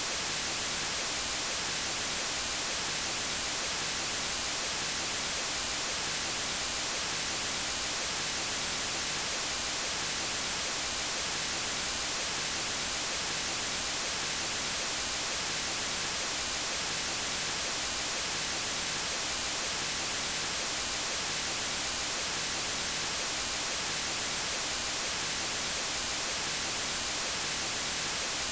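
Steady synthetic white noise: an even, unchanging hiss, brightest in the treble, played for a baby's sleep.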